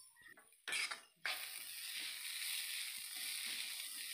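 Chopped onions and spices frying in oil in a non-stick pan: a steady sizzle, with a spatula scraping and stirring through them. The sound cuts in and out during about the first second.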